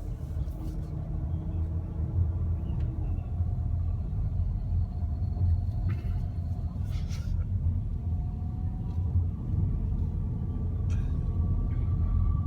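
Steady low rumble of a car driving, heard from inside the cabin, with a few faint clicks about six and seven seconds in.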